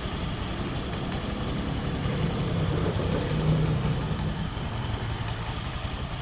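Honda Beat injection scooter's single-cylinder engine and CVT running steadily at idle, with the rollers newly replaced and no rattle of worn rollers.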